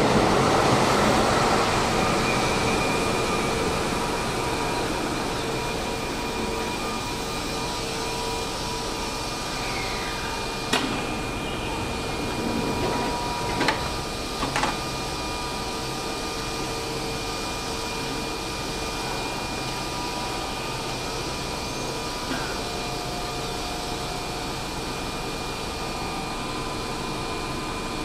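Keihan 6000-series electric train rolling to a stop at the platform, its running noise fading over the first few seconds, then standing with a steady electric hum and several held high tones from its equipment. A few short sharp knocks come near the middle as the doors open and passengers get off.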